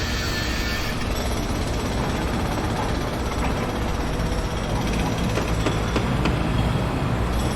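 Construction-site heavy machinery: a diesel engine rumbling steadily under a dense mechanical din, with a scattering of short sharp knocks between about three and six and a half seconds in.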